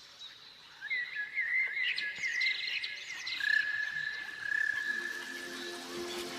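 Nature ambience of birds chirping and warbling over a steady high-pitched hum of insects or frogs.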